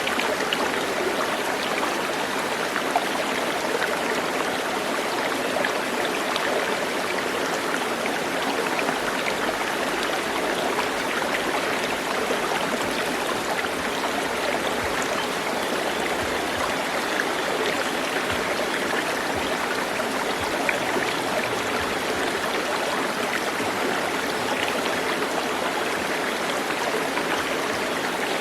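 Stream water running and babbling steadily, an even rushing wash with fine splashing detail.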